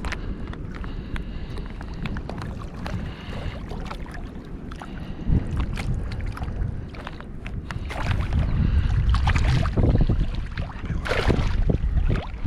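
Strong wind buffeting the microphone, a constant low rumble, over water sloshing and splashing around a wading angler. Louder splashes come about nine to eleven seconds in.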